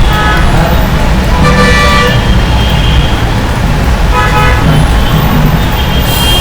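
Steady rumble of road traffic with vehicle horns honking in short toots several times.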